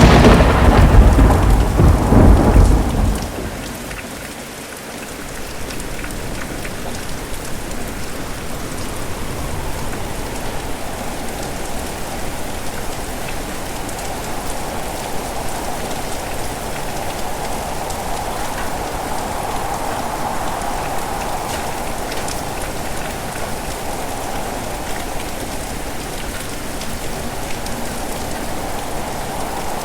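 A sharp thunderclap right at the start, rumbling loudly for about three seconds, then steady heavy rain falling.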